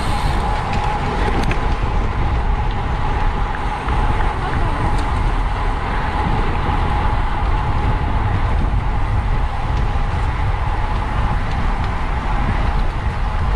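Wind buffeting the microphone of a camera on a racing bicycle at speed, a loud, steady low rumble with a steady whine running through it.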